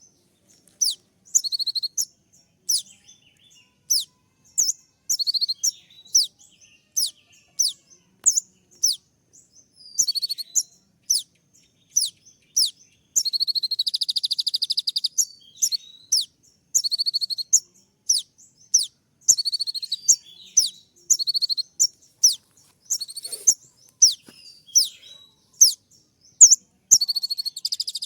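A kolibri ninja (konin), a small sunbird, gives its sharp 'tembak' call. It is a quick series of short, high, downward-sweeping chirps, one or two a second, broken twice by a fast, dense trill.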